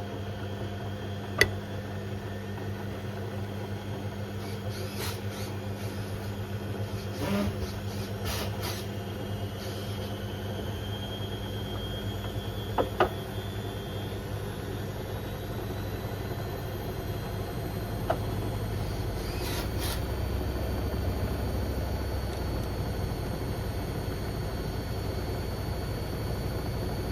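Beko WM74135 washing machine running a wash with a toaster and a kettle in the drum: a steady motor hum with a whine that rises slowly. A few sharp knocks sound as the load shifts in the drum, the loudest about a second and a half in and a pair about halfway through, and a deeper rumble builds near the end.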